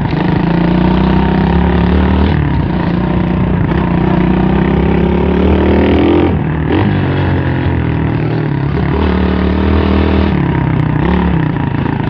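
M2R KX110F pit bike's 110cc four-stroke engine running, with the pitch climbing in a rev about five to six seconds in, then dropping back, and shifting again near the end.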